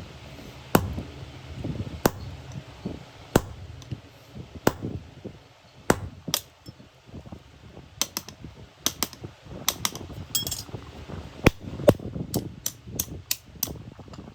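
Hammer blows on iron, at first about one strike every second and a quarter, then quicker and uneven through the second half.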